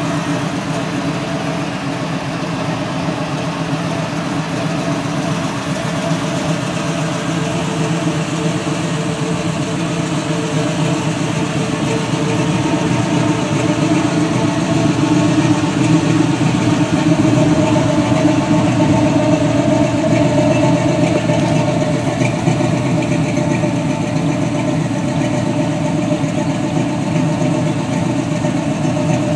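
1980 Chevrolet El Camino's 5.0-litre V8 idling steadily through Hooker headers. The sound grows louder for a stretch around the middle, as the chrome exhaust outlet comes close.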